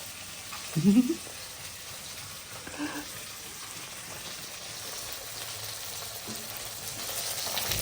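Chopped onions and tomatoes frying in oil in a kadhai, a steady sizzle that grows louder near the end: the onion-tomato base for a curry gravy.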